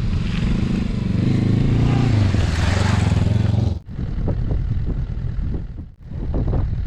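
Motorcycle engine running under way with wind rushing over the microphone, its pitch rising and then falling. It cuts off abruptly about four seconds in, and a rougher, uneven low rumble follows.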